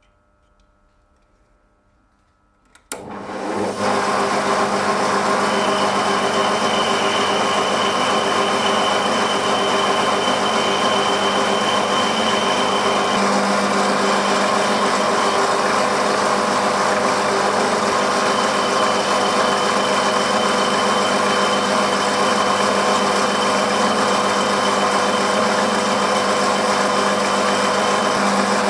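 A machine tool's electric motor switches on with a click about three seconds in and runs steadily, with a constant hum and a thin high whine that comes and goes.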